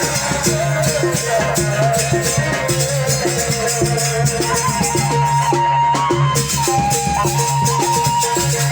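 Sasak ale-ale ensemble music: a wavering melody that settles into long held notes about halfway through, over a steady low drone, with evenly repeating percussion strokes and a shaken rattle.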